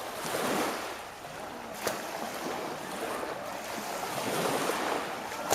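Steady rushing noise of wind on the microphone and waves washing ashore, swelling and easing, with one sharp click a little under two seconds in.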